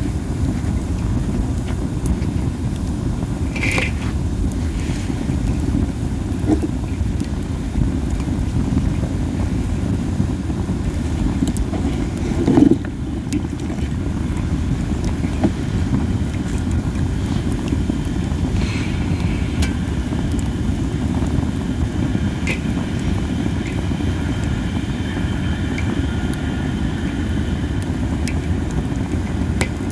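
Campfire of burning masaki (Japanese spindle tree) wood: a steady low rumble with scattered sharp pops and crackles, the biggest about a third of the way in. In the last few seconds a thin hiss rises from the burning wood, the hissing the uploader hears from this wood.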